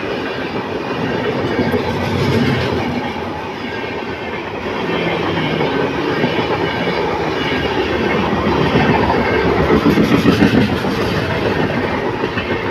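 A long train running past close by, with the steady rumble and rattle of its wheels on the rails and a quickening clatter about two-thirds of the way through.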